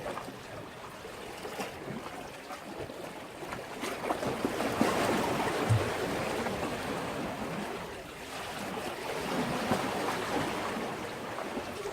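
Sea waves washing in against a breakwater, swelling loudest about four seconds in and again just after eight seconds.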